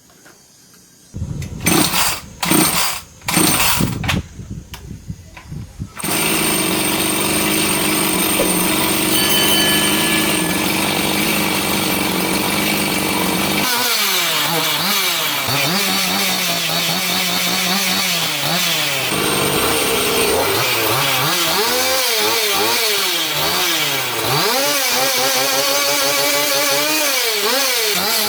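Restored Husqvarna 365 two-stroke chainsaw being started: several short bursts over the first few seconds, then it catches and runs at a steady idle. From about halfway the engine revs up and down repeatedly as the throttle is worked.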